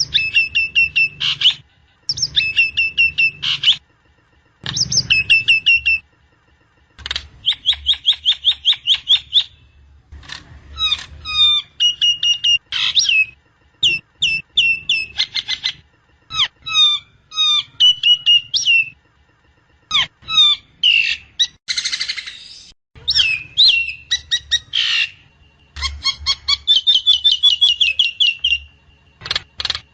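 Jalak Nias starling song: bursts of rapid repeated chirps and trilled whistles separated by short pauses, with a harsh squawk about 22 seconds in.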